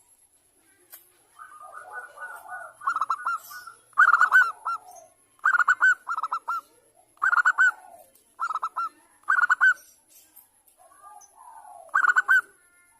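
Zebra dove (perkutut) cooing. A soft rolling start is followed by a string of loud, clipped coo phrases about a second apart, with a short lull before a last phrase near the end.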